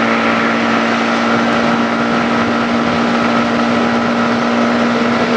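Yamaha MT-15's 155 cc single-cylinder engine running at a steady cruising speed, holding one even note, under a constant rush of wind and road noise.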